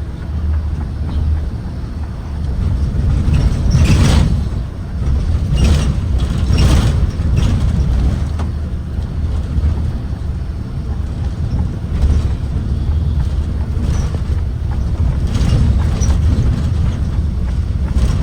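Blue Bird Vision propane school bus running, a steady low rumble of engine and road. Occasional short knocks and rattles, the loudest about four and seven seconds in.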